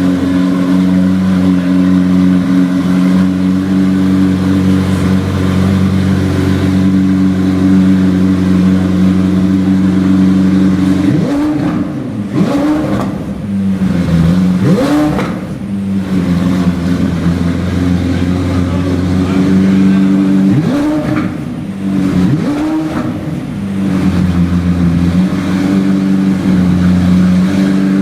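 McLaren Senna's 4.0-litre twin-turbo V8 idling steadily and loudly, blipped into a few quick revs near the middle and two more a little later, dropping back to idle each time.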